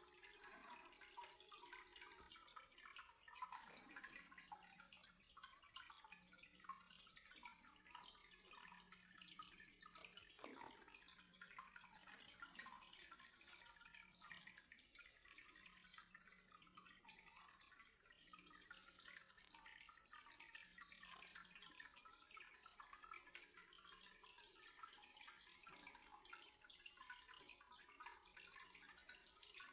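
Faint water trickling and dripping, with a soft crackly patter.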